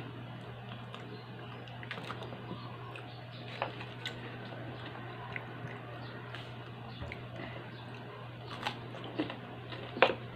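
A person chewing and biting chicken eaten by hand, with scattered small clicks and taps; a sharp click just before the end is the loudest sound. A steady low hum runs underneath.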